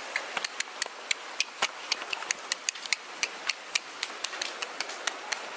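Heavy rain: a steady hiss with many sharp, irregular ticks of drops striking a hard surface close by, several a second.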